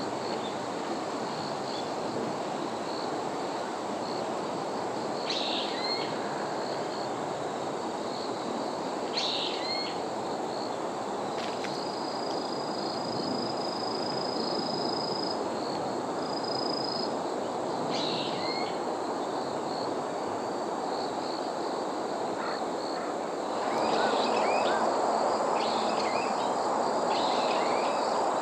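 Outdoor autumn ambience: insects chirring steadily, with a few short bird calls scattered through and a held high trill for several seconds midway, over a steady background hiss that grows louder near the end.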